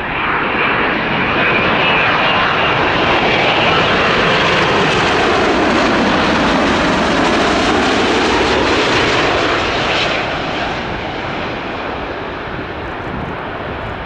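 Boeing 787-9 airliner passing close by on its landing approach: loud, steady jet engine and airflow noise, with a tone that sweeps down in pitch midway as it goes past, easing off slightly near the end.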